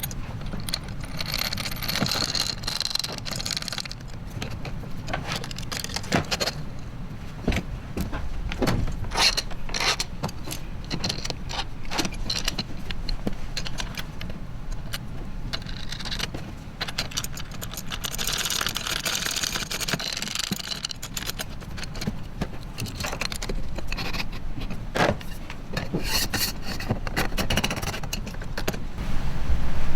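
Small metal hardware clinking and scraping: lock washers, nuts and bolts handled and started by hand on kayak-track mounting brackets, with scattered sharp clicks and bursts of rattling over a steady low hum.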